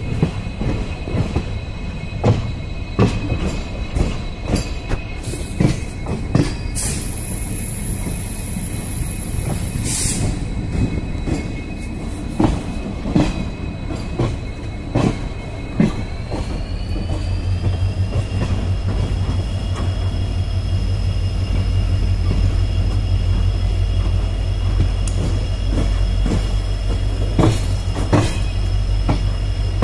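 Train running along the track, its wheels clicking over the rail joints. A steady high whine rises in pitch about halfway through, and a low drone grows louder in the second half.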